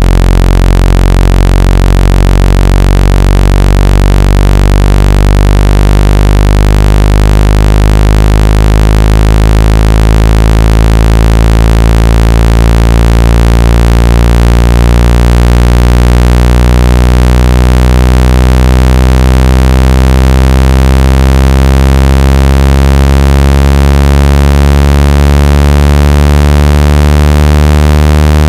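Synthesized water-eject tone for clearing water out of a phone or earphone speaker: a loud, low buzzing tone thick with overtones, slowly rising in pitch.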